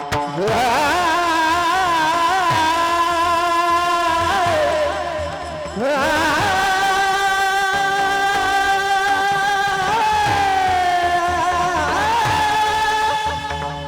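A kirtan singer's high voice holding long, drawn-out notes with vibrato, sliding up into each of about three phrases, over deep drum strokes that fall in pitch.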